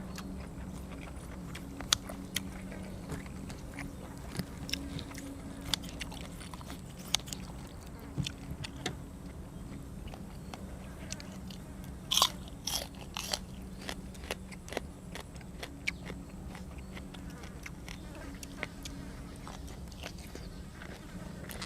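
Close-up eating sounds: biting and chewing grilled cuttlefish and crisp fresh vegetables, with irregular crunches and wet clicks, the loudest cluster about twelve seconds in, over a steady low hum.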